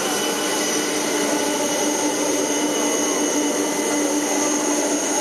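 Jet engine running steadily at an airport: a constant rushing whine with a few steady tones and no change in pitch, consistent with an engine run.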